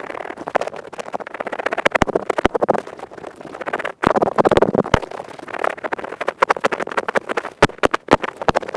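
Earpick scraping rapidly inside an ear, close-miked: a dense, fast crackly scratching with a few sharper clicks and a brief break about four seconds in.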